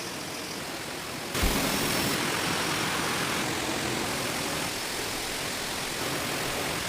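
Heavy rain falling steadily, a dense even hiss; about a second and a half in it suddenly gets louder with a brief low thump.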